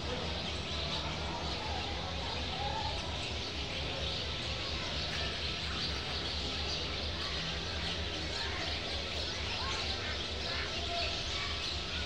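Steady background hiss over a low rumble, with faint bird chirps now and then.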